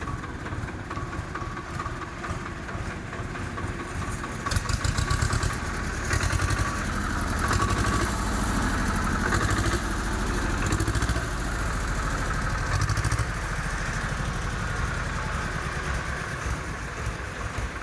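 Tractor diesel engine running steady, growing louder about four and a half seconds in, with a pulsing rise and fall in loudness.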